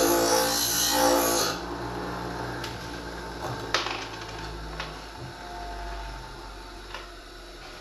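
Background electronic music cuts off about a second and a half in. After it, the motor of a Twice As Sharp scissor sharpener, turning its fine honing wheel, runs with a steady low hum, and four light clicks fall across the rest.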